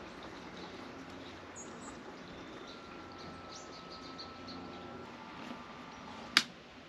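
Quiet outdoor ambience with faint bird chirps, and a single sharp click or knock near the end.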